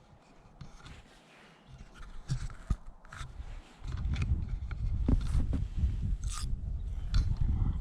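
Camera microphone dipped into lake water: scattered scraping and clicking handling noise, then from about four seconds in a dense, muffled low rumble with crackles as water covers the microphone.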